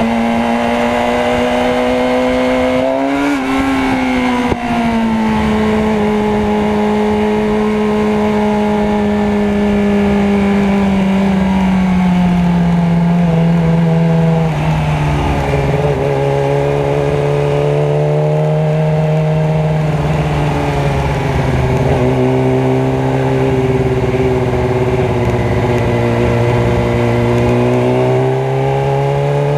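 Motorcycle engine running steadily through traffic. Its pitch drifts slowly down over the first half, holds low, then climbs again near the end as the bike slows and picks up speed.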